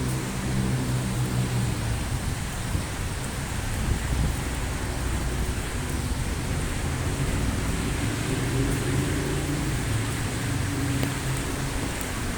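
Heavy rain falling steadily, with a low engine hum beneath it, stopping about two seconds in and coming back for the last few seconds.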